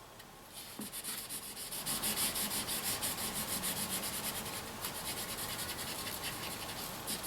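Felt-tip marker scrubbing quickly back and forth on paper, colouring in an area with fast, even strokes that start about half a second in.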